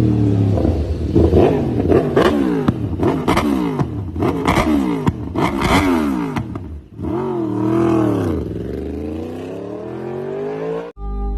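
Yamaha sport motorcycle engine being revved over and over, its pitch climbing and dropping with each throttle blip. A longer rise and fall comes about two-thirds of the way in, and the sound cuts off abruptly near the end.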